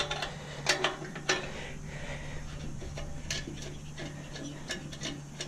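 Scattered light metallic clinks and knocks from hand tools and steel parts being handled while a stainless bread steamer is taken apart, over a steady low hum.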